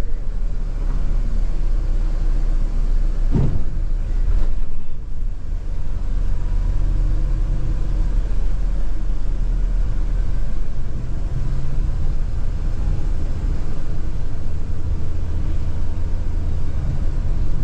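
Scania multi-axle coach running at highway speed, heard inside the cabin: a steady low engine and road rumble. A brief thump about three and a half seconds in, and a lighter one a second later.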